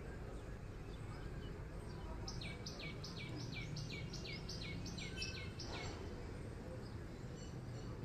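A bird calling: a run of about ten quick notes, each falling in pitch, about three a second, starting a little over two seconds in and stopping near six seconds. Steady low outdoor background noise runs beneath it.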